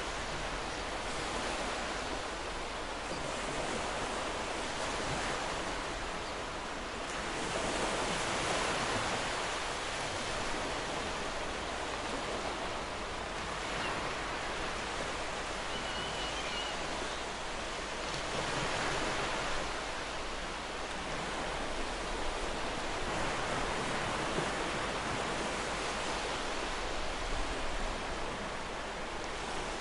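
Ocean surf breaking and washing up a beach: a continuous rush of water that swells every five or six seconds as waves come in.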